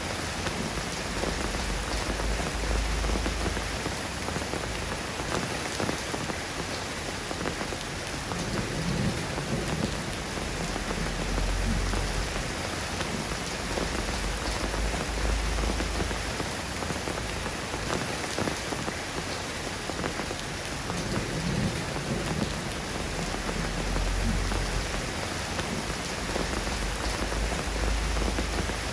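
Steady rain falling, a dense even patter with no letup. A low rumble swells and fades several times underneath.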